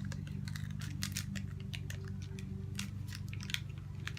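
Wax paper being peeled slowly off the sticky adhesive of a diamond-painting canvas, giving an irregular run of small crackles and ticks as it pulls away. A steady low hum runs underneath.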